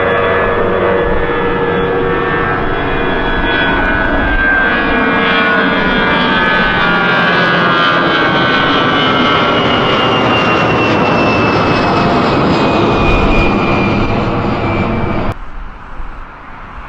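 Airbus A319 airliner's jet engines at takeoff power on departure: a loud, steady noise with whining tones that slowly fall in pitch as the aircraft passes. The sound cuts off suddenly near the end.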